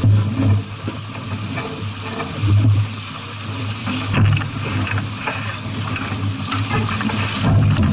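Steady rushing noise of a boat under way, with a low, rising and falling rumble and scattered small knocks.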